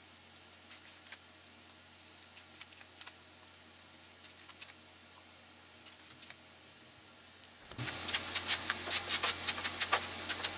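Faint scattered ticks and scrapes over a steady low hum. About eight seconds in, a much louder, busy run of rapid irregular clicks and scratching sets in.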